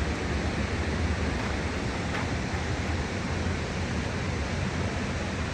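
Steady rushing of falling water from Burney Falls, an even, unbroken roar with no separate splashes or strokes.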